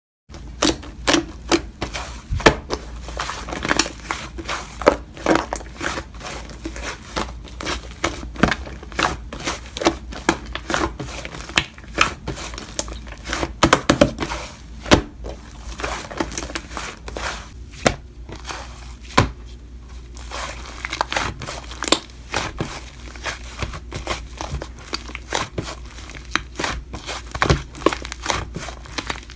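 Hands squishing, pressing and stretching slime, making a steady stream of irregular sticky pops, clicks and crackles.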